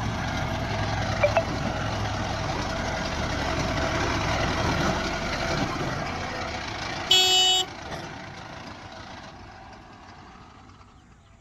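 Heavy diesel machinery engine running steadily, then fading away over the last few seconds. A single short, loud horn toot sounds about seven seconds in.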